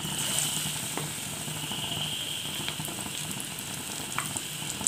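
Gram-flour-battered, egg-stuffed okra frying in hot oil in a pan: a steady sizzle that sets in as the piece goes into the oil, with a few faint pops.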